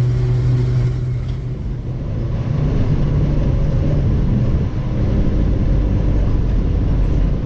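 1948 Ford F5 bus running down the road, a steady low engine hum with road noise. It eases slightly about a second in and picks up again a little later.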